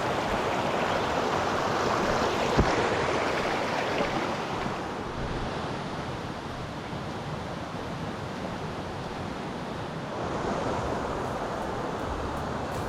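Steady rushing of a mountain stream, a little louder in the first few seconds, with a single short knock about two and a half seconds in.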